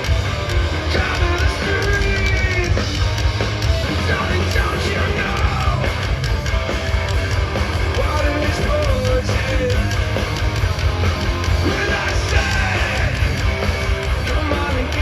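A live punk rock band playing loud, with drums, heavy bass and yelled, sung vocals, heard from the crowd.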